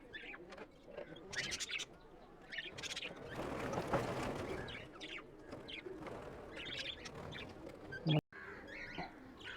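Budgerigars and cockatiels in a colony aviary chirping on and off, with a short burst of rustling about four seconds in.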